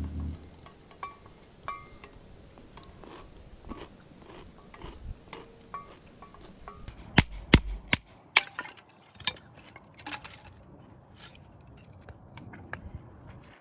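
Camping gear being handled: small clicks, knocks and light metallic tinks, with a few sharp, loud cracks about seven to eight seconds in.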